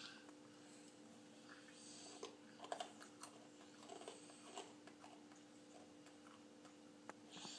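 Faint chewing and small clicks from a toddler eating hard, dry cereal, over a steady low hum.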